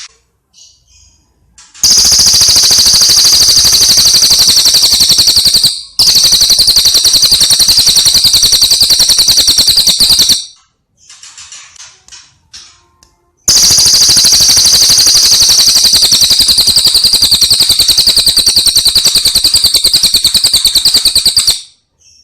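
Recorded birdsong from a bird-training masteran track: three long, loud, very rapid high-pitched trills, each lasting several seconds, with soft short chirps in the gaps between them.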